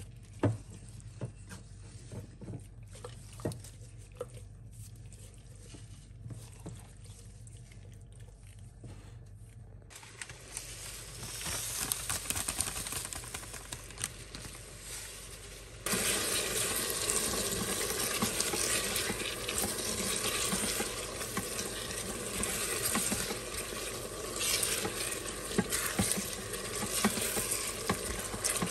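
Faint clicks and rubbing of gloved hands working marinade into a whole chicken in a glass dish. Then onions and peppers sizzling in oil in a non-stick pot while a spatula stirs them; the frying starts about a third of the way in and turns suddenly louder just past halfway.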